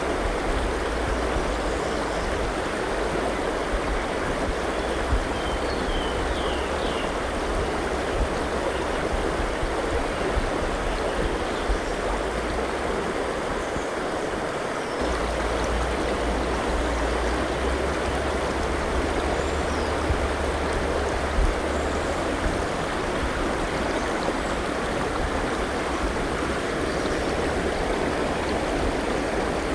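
River water flowing steadily in an even rushing wash, with a few faint high bird chirps about a fifth of the way in and again past the middle.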